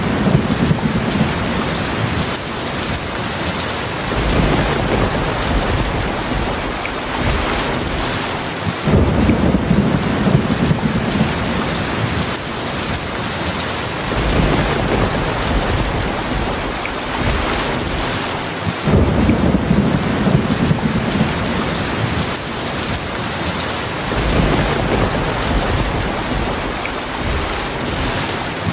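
Heavy rain falling steadily, with low rolls of thunder rumbling under it, a fresh roll about every five seconds.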